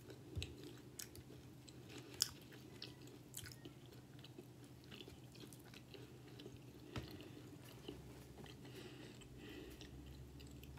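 Faint close-up chewing of bacon ranch cheese fries, with scattered soft mouth clicks over a low steady room hum.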